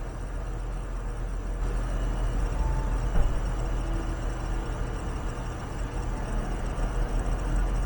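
Steady low electrical hum and hiss from a remote camera's microphone recording an empty room, with a single short knock about three seconds in.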